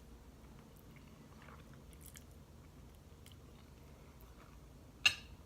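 Person quietly chewing a mouthful of spaghetti and bread, with faint wet mouth clicks. A single sharp click about five seconds in.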